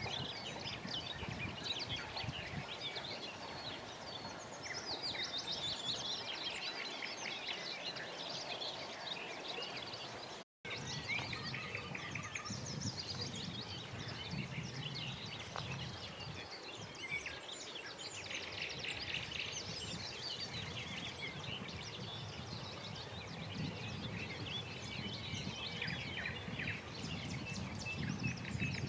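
Many birds singing and calling at once in a dense chorus of chirps and trills, over a low steady background rumble. The sound cuts out briefly about ten seconds in.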